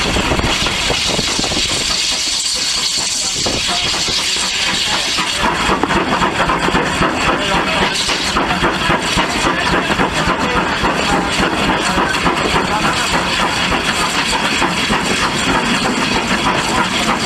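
Steam tank locomotive hissing steam for about the first five seconds, then working, with a louder rapidly pulsing exhaust noise.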